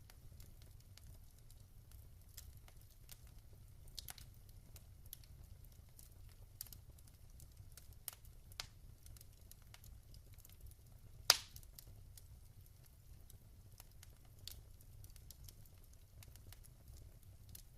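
Wood fire crackling in a fireplace: scattered small pops and clicks over a faint low rumble, with one much louder pop a little past the middle.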